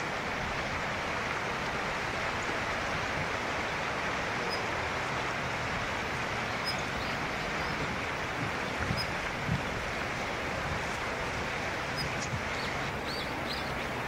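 Steady rushing background noise with a few faint, short, high bird chirps scattered through it, coming a little closer together near the end.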